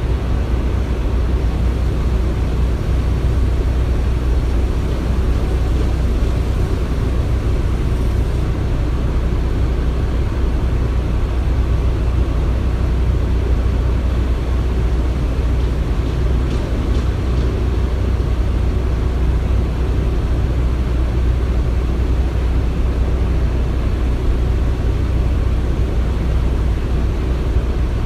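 Construction-site ambience: a steady low machinery rumble that holds an even level throughout, with no distinct knocks or events standing out.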